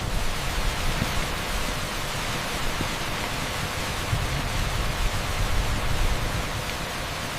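Heavy rain pouring steadily onto an asphalt street: a dense, even hiss with no breaks.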